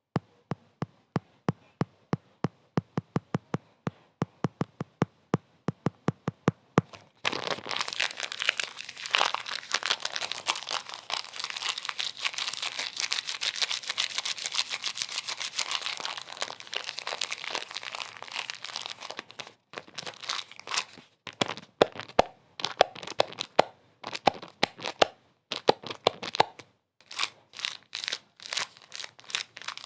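Crinkling and crackling noise. It opens with a run of sharp clicks, about four a second. About seven seconds in it becomes a dense, continuous crinkle. Near twenty seconds it breaks into short separate bursts.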